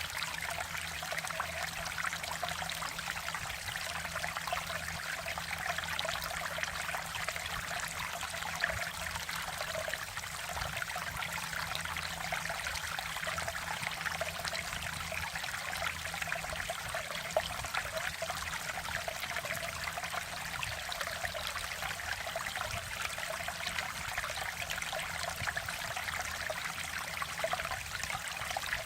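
Mountain stream water running steadily over rocks, a continuous babbling and trickling rush.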